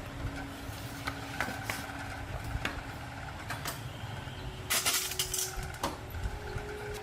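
Light metallic clinks and clicks of small parts or tools being handled, over a steady low hum, with a short rush of noise about five seconds in.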